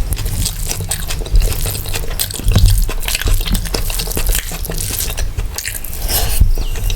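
Close-miked eating of mutton biryani and mutton curry: wet, squishy chewing and biting with many quick mouth clicks.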